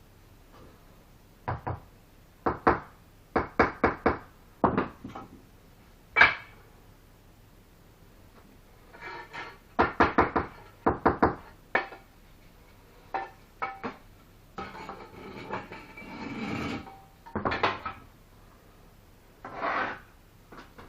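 Bricklaying: a trowel knocking and tapping bricks into mortar in irregular clusters of sharp, partly ringing clinks, with a stretch of scraping about two thirds of the way through.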